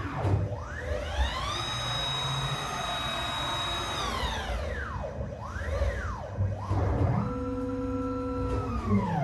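Stepper motors of a five-axis CNC router whining as the axes move: the pitch glides up as a move speeds up, holds level, then glides down as it slows, several moves in a row, with a few short quick ones in the middle. A steady low hum runs underneath.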